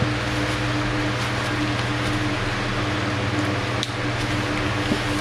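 Steady hum of a running fan, a constant rush of air with a low electric drone, and a light click near the end.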